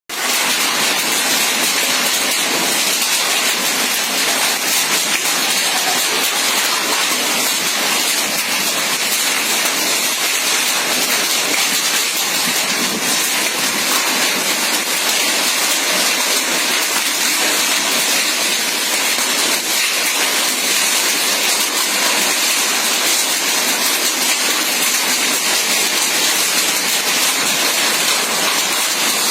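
Hail and heavy rain pelting down: a steady, dense hiss made of countless fine ticks of stones and drops striking surfaces.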